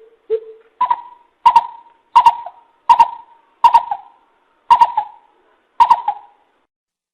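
Greater coucal (bìm bịp) calling: a series of about eight deep, hollow hoots. The first couple are lower, then the call steps up in pitch, and the hoots come a little further apart as the series goes on.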